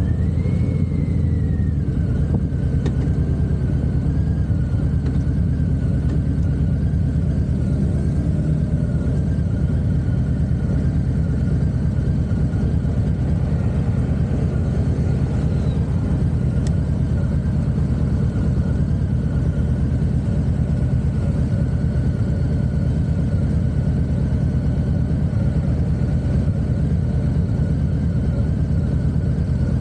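Harley-Davidson V-twin motorcycle engine running steadily under way.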